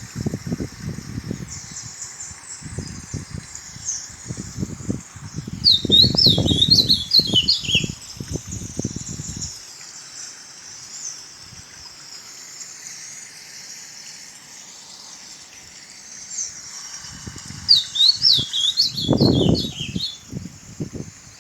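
A songbird singing a quick phrase of rapid, falling high notes, twice, about twelve seconds apart, over a steady high background of other birds or insects. Irregular low rumbles run underneath and are loudest around each phrase.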